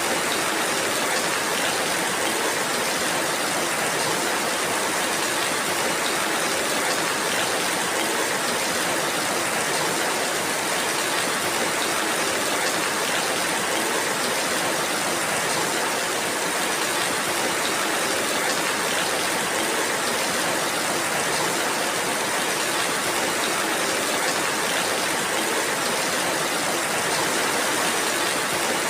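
Steady rainfall: an even, unbroken hiss with no pauses or single loud events.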